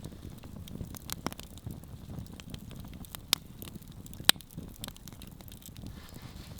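Campfire crackling over a low steady rustle, with a few sharp pops, the loudest about three and four seconds in.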